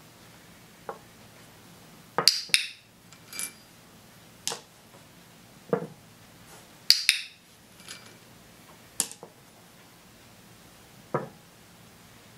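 A series of sharp clicks and light clatters of small hard objects on a tabletop, about eight in all, as toy figures are knocked over and small pieces are set down. The loudest are two quick double clacks, about two seconds in and about seven seconds in.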